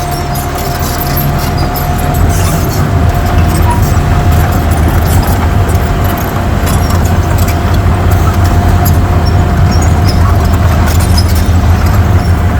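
Heavy diesel engine of earthmoving machinery running, getting louder about two seconds in, with a steady high whine over it and scattered clicks and rattles.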